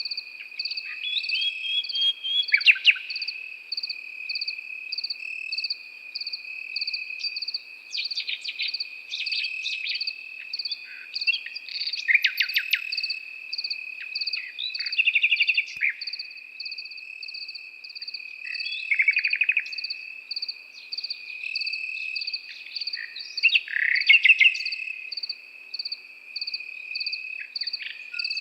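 A nightingale singing loud phrases of rapid trills and whistles every few seconds, over a continuous insect chorus of crickets: a steady high trill and an evenly pulsing chirp.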